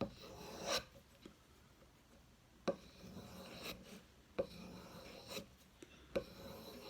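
Knife blade being drawn along a strop in slow rubbing strokes, with a sharp tap every couple of seconds as the blade is turned or set down. This is a stropping touch-up of an edge already sharpened on whetstones.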